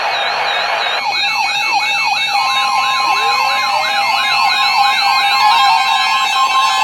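Several electronic siren sounds layered over one another. A fast high warble runs throughout. A repeating swooping yelp comes in about a second in, and a slow rising wail begins around three seconds in, over a steady electronic tone.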